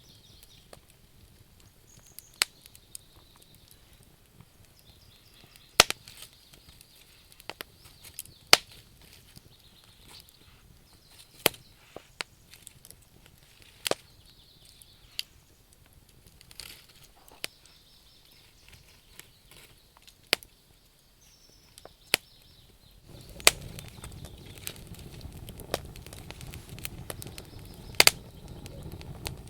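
Wood campfire crackling, with sharp pops and snaps at irregular intervals, a few every couple of seconds. About three quarters of the way through, a low steady rush comes up under the crackle.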